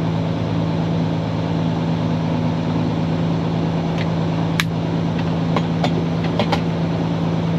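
Steady low drone of a Kenworth W900 semi truck's diesel engine heard from inside the cab while driving, with a few light clicks in the middle.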